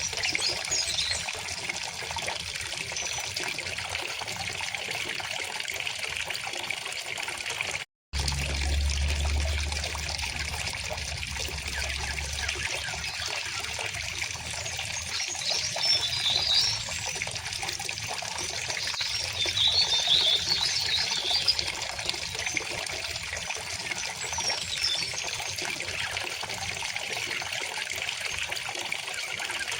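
River water flowing and trickling steadily, with short bursts of small-bird chirping about halfway through and again a little later. The sound cuts out for a split second about eight seconds in, followed by a low rumble for a few seconds.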